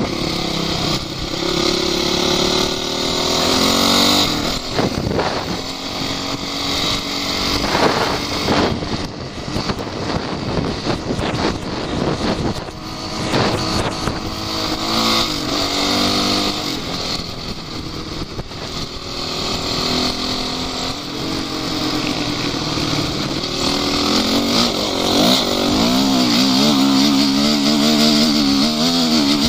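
Off-road vehicle engines running and revving, their pitch rising and falling again and again. A strong engine note builds in the last few seconds.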